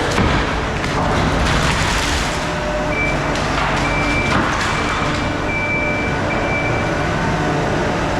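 Skid steer engine running steadily, with a backup alarm beeping in short repeated tones through the middle stretch.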